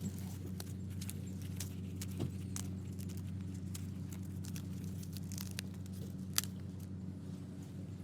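A steady low mechanical hum, like an engine running, with irregular sharp clicks and crackles over it; the loudest click comes about six seconds in.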